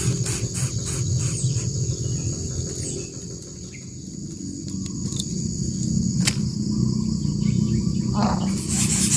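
Coucal chicks giving repeated raspy calls at the start and again, louder, from near the end, over a steady high insect trill and a low rumble.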